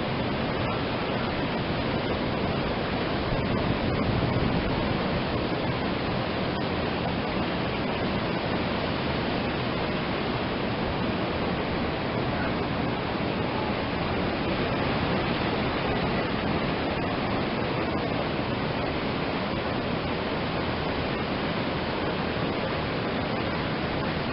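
Atlantic Ocean surf on a beach: a steady rush of breaking waves that swells slightly now and then.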